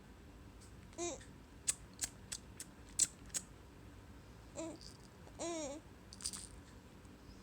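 A young child making mouth clicks: six sharp tongue clicks in a little under two seconds, with short babbled vocal sounds before and after, one of them wavering.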